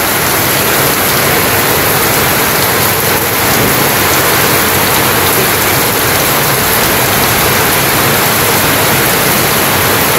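Heavy rain falling in a steady downpour on corrugated tin roofs and a flooded yard, an even, unbroken hiss with no change in strength.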